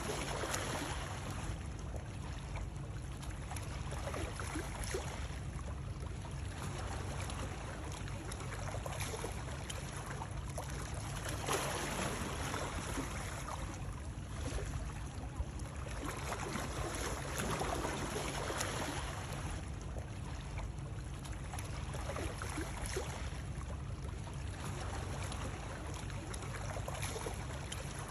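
Water sounds: a steady low rumble under splashing, lapping water that swells and fades about every two to three seconds.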